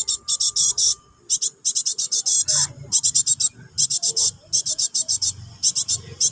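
Young cinereous tits (gelatik batu) begging, calling for their parent. Rapid runs of short, high-pitched chattering calls, several notes in quick succession, broken by brief pauses.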